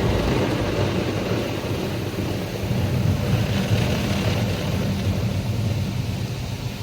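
Automatic car wash brushes scrubbing over the car, heard from inside the cabin as a steady, low churning noise that eases off a little near the end.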